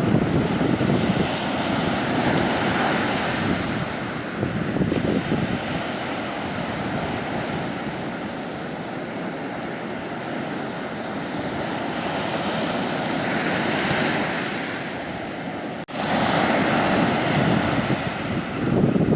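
Mediterranean sea waves breaking and washing up the beach, a continuous surf that swells and ebbs, loudest near the start and again over the last few seconds. A short sudden drop in the sound comes about sixteen seconds in.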